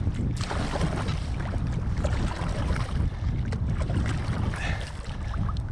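River water rushing and splashing close to the microphone, with a heavy low rumble of wind buffeting the mic.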